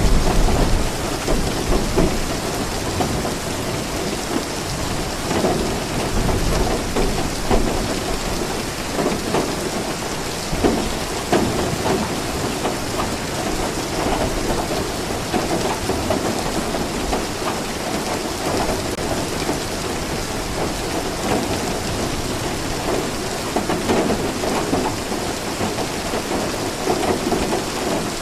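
Steady rain falling, with low rumbles of thunder, the loudest in the first second.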